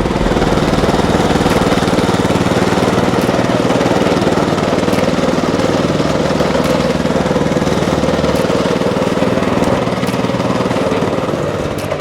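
Walk-behind tractor (motoblock) engine running steadily, with a fast, even firing beat.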